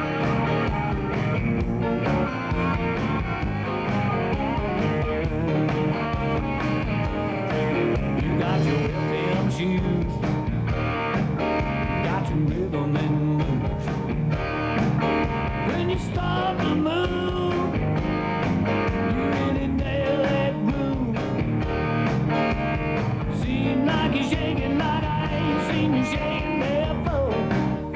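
Blues-tinged beach music from a band with guitar, playing an instrumental stretch of the song with no vocals over a steady beat.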